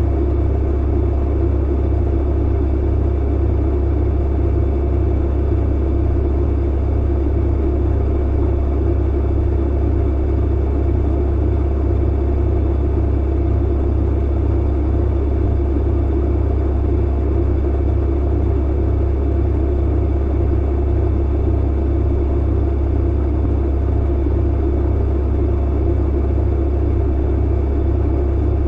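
Clothes dryer running with a steady low hum and rumble.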